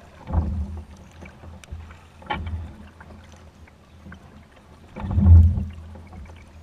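Kayak paddle strokes in floodwater: three splashing strokes a couple of seconds apart.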